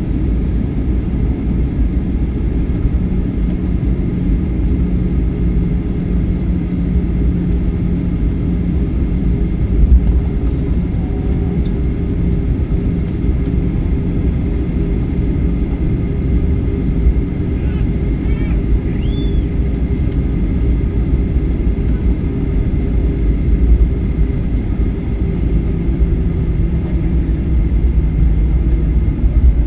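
Jet airliner cabin noise after landing: a steady, loud low rumble of the engines and airframe, with a constant hum over it, as the aircraft taxis.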